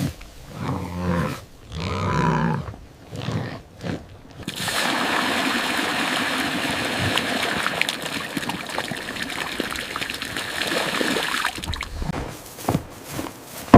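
A cow lowing twice in low, drawn-out calls. About four and a half seconds in, a steady rushing, water-like noise starts and runs for about seven seconds, then stops.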